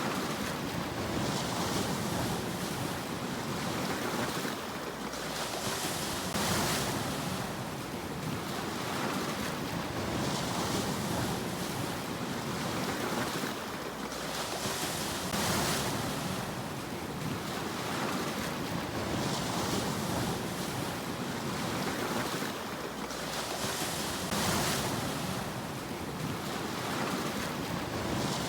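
Sea waves breaking and washing up the shore, a hissing surge rising and fading about every four to five seconds.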